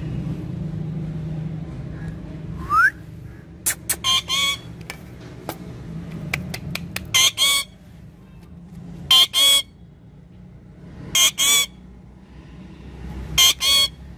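Parrot giving loud, short, harsh calls, mostly in quick pairs about every two seconds, after a single rising whistle about three seconds in. A steady low hum runs underneath.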